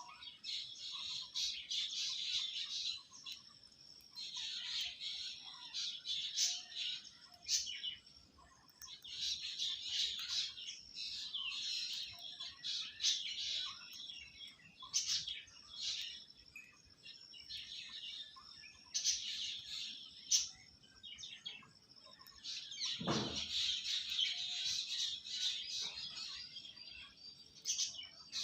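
Parrots chirping and twittering in rapid, overlapping flurries, with short lulls between them. About two thirds of the way through, one sound glides steeply down in pitch.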